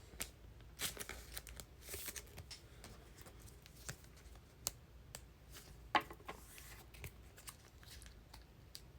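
Trading cards being handled at close range: faint rustles and scattered light clicks as cards are slid and flipped through a pack, the sharpest click about six seconds in.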